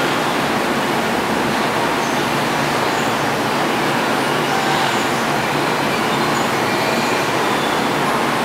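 Tobu 30000 series electric train creeping slowly into a terminal platform: a steady rumble of wheels and motors, with faint brief high wheel squeals.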